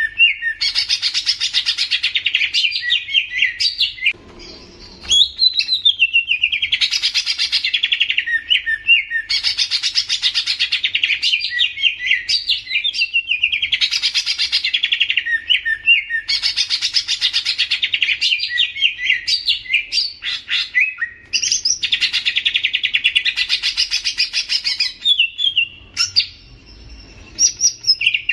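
A songbird singing rapid trilled phrases of two to three seconds each, one after another, ending in quick chirps, with a brief pause about four seconds in.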